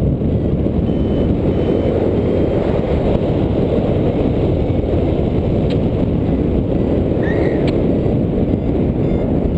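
Strong wind buffeting the microphone in flight: a steady, loud, low noise.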